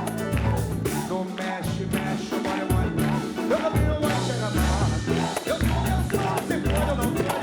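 A live samba band playing, with a pulsing bass line and steady percussion strokes under strummed and melodic instrument parts.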